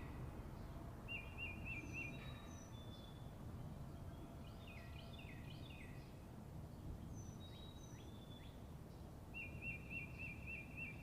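Faint forest birdsong: a series of quick downslurred notes near the start and again about halfway, a quavering trill heard twice, and a few short high whistles, over a low background hum of forest.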